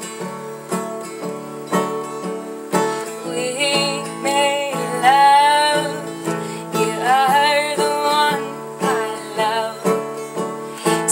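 Acoustic guitar strummed in steady chords, with a woman singing a wordless melody over it for much of the middle stretch.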